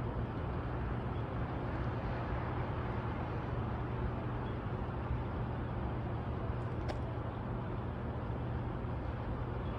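Steady low hum over an even outdoor background noise, with a single brief click about seven seconds in.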